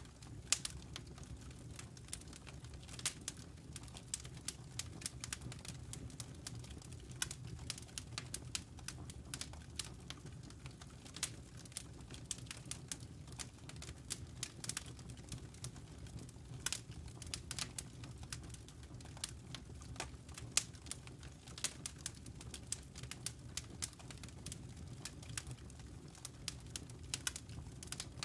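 Campfire burning, the wood crackling and popping in irregular sharp snaps over a low steady rumble.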